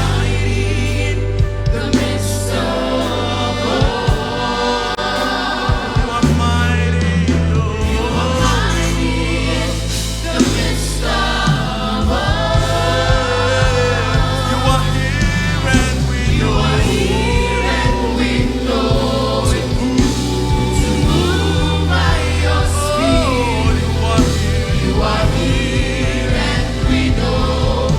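Live gospel praise-and-worship music: a choir of singers sings over a full band with steady bass.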